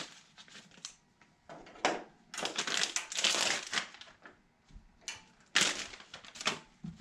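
Crinkling and rustling of packaging being handled, in several short bursts with a longer stretch about two and a half seconds in.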